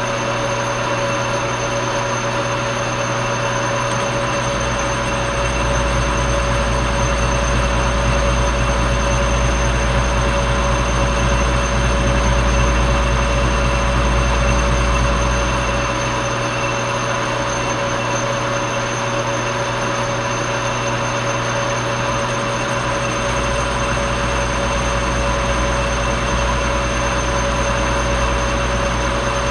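Old Monarch metal lathe running, a steady machine hum with several whining gear tones over a constant hiss. The low rumble swells slightly for a while mid-way, then settles back.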